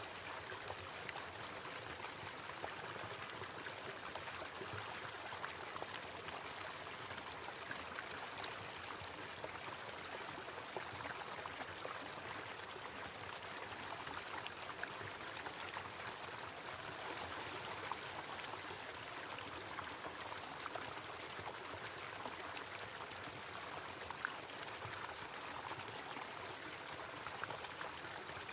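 Small waterfall splashing and trickling steadily over rocks, with small splashes here and there.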